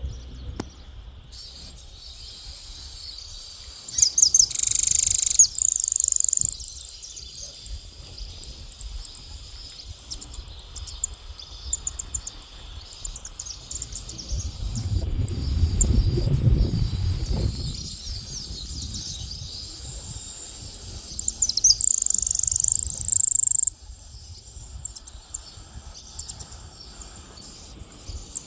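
Small songbird singing over a steady, high-pitched insect chorus. Two loud, high buzzing trills come about four seconds in and again near twenty-two seconds, each lasting two or three seconds. A low rumble swells and fades midway.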